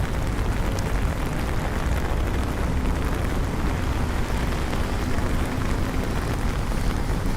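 Steady rainy city ambience: an even wash of rain and traffic noise over a deep continuous rumble, with a faint engine hum through the middle.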